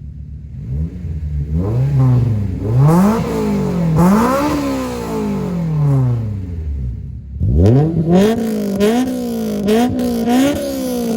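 Honda S2000's four-cylinder engine, fitted with an aftermarket Skunk2 exhaust and test pipe, being revved repeatedly: a few swells up and down in pitch, then after a short dip a sharp rise and a run of quick blips that fall away near the end. The exhaust is loud.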